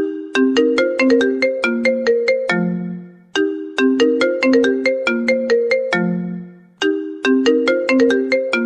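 iPhone ringtone playing: a short melody of quick, sharply struck notes that ends on a low note fading out, then starts again, looping about every three and a half seconds.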